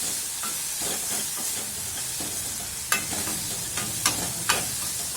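Onion, tomato and chilli masala sizzling in oil in a kadai while a spoon stirs it, the spoon knocking against the pan a few sharp times about three to four and a half seconds in.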